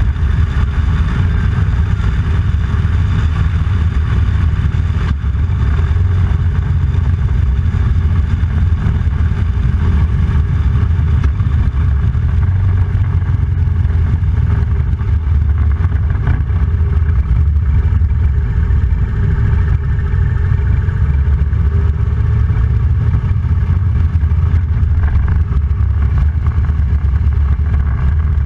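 Motorcycle running steadily at road speed, a loud continuous low rumble with no clear rise or fall in pace.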